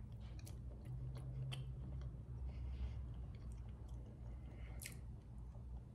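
Faint chewing of a mouthful of boiled egg, with soft wet mouth clicks over a low steady hum.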